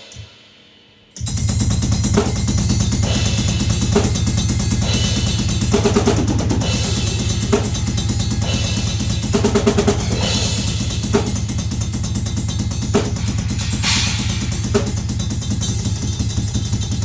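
Drum-heavy music with a full drum kit, bass drum and snare, starting abruptly about a second in after a brief quiet gap, then a steady beat with regular strong hits.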